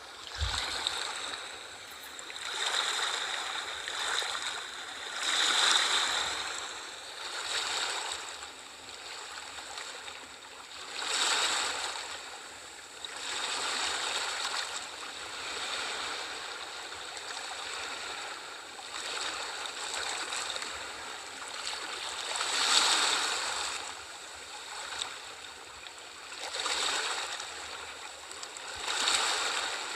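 Sea waves washing in and breaking, surging louder every two to four seconds over a steady wash of water.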